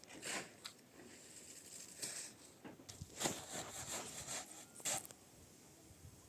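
A series of short, irregular rustling and scraping strokes, the busiest run in the middle.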